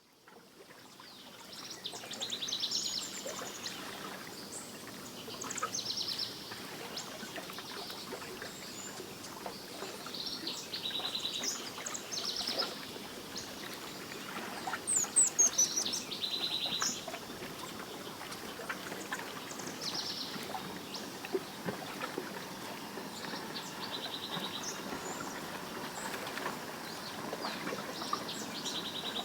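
Songbirds singing outdoors: short rapid trills repeated every few seconds over a steady background hiss, with a louder run of high, falling chirps about halfway through. The sound fades in at the start.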